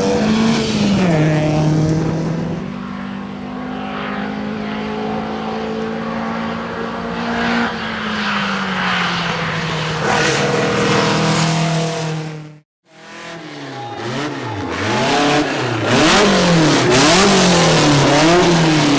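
1961 Volvo 122S rally car's four-cylinder engine running at a steady, held pitch, easing to a lower steady note partway through. After an abrupt break it revs up and falls back again and again through quick gear changes under hard driving.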